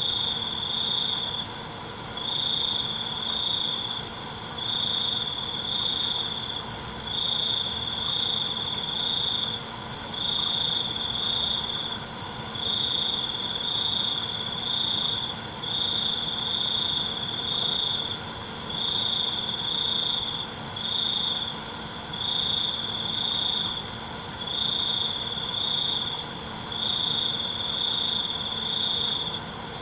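Night chorus of crickets: one loud trill repeated in bursts of a second or two with short breaks between, over a fainter, faster pulsed chirping a little higher and a steady high-pitched insect drone.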